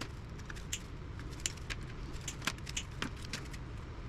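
Scattered light metallic clicks and clinks, irregular and a few per second, from hand tools and small parts as an old tube radio chassis is taken apart, over a steady low background hum.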